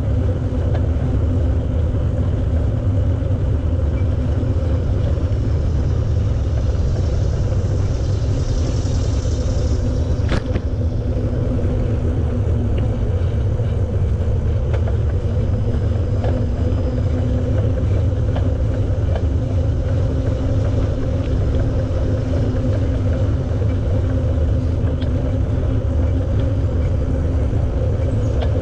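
Wind rumbling steadily on the microphone of a camera on a moving bicycle, along with the steady hum of the ride. There is a single sharp click about ten seconds in.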